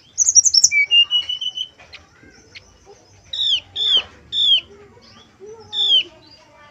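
Brown-chested jungle flycatcher song: a quick burst of very high notes running into a held whistle, then a series of short downslurred whistled notes repeated about every half second to second.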